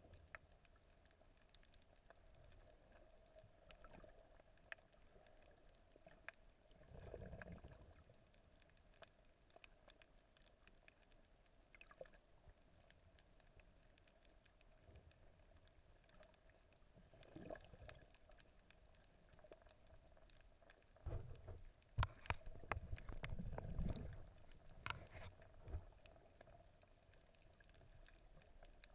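Faint, muffled water sound recorded through a camera in the water while snorkelling: low swishing surges with scattered sharp clicks, loudest about three-quarters of the way in.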